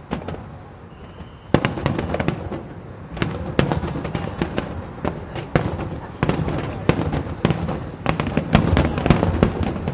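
Aerial fireworks bursting in quick succession. After a lull of about a second and a half, a dense barrage of sharp bangs and pops follows, several a second.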